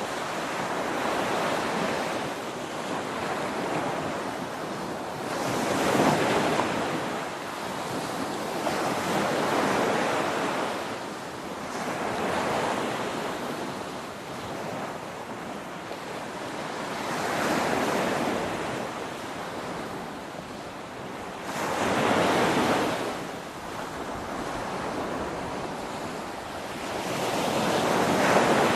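Ocean waves breaking on a shore one after another, each surging up to a rushing crash and then washing back down, every few seconds. The biggest crashes come about six seconds in and near the end.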